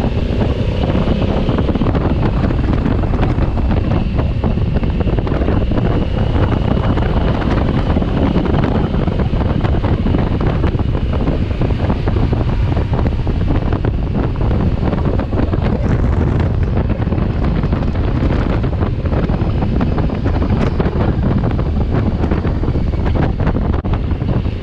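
Steady wind noise buffeting the camera microphone while riding a 2020 Honda Africa Twin motorcycle, its engine running faintly underneath.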